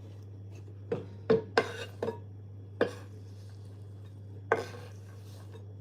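Kitchen utensils and dishes clattering: about seven separate sharp knocks and clinks, unevenly spaced, over a steady low hum.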